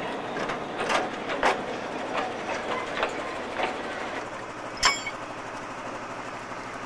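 Narrow-gauge train at a station during shunting: scattered clicks and knocks, then one sharp metallic clang with a short ring just before five seconds in, over a steady low hum.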